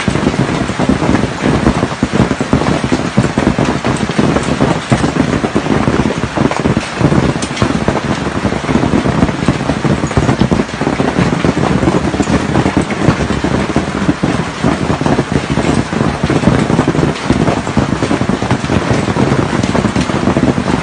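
Heavy storm rain pouring down, a loud steady rush with a dense patter of drops striking hard surfaces.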